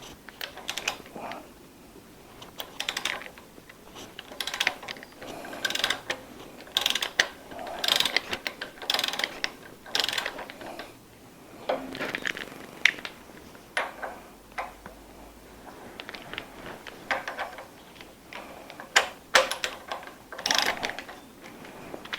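Steel hand tools working on the front crankshaft pulley of a Ford flathead V8: irregular spurts of metallic clicking, clinking and scraping, a fraction of a second to about a second each, as the pulley is held with a tyre lever and worked loose.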